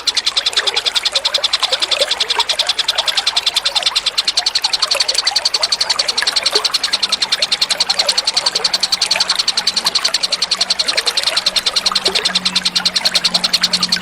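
Recorded songbird song used as masteran: one bird repeating a fast, even series of high-pitched chips, about ten a second, with scattered shorter lower chirps or water gurgles mixed in.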